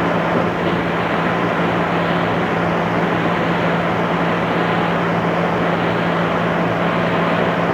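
Cabin running noise of a JR East 211 series electric multiple unit travelling at steady speed: a continuous rumble of wheels and motors with a steady low hum. It is heard through a cassette-tape recording, which dulls the high end.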